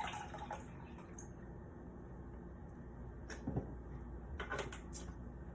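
A few light knocks and clicks of kitchen things being handled over quiet room tone: one about three seconds in, a soft thud just after it, and a small cluster of clacks about a second later.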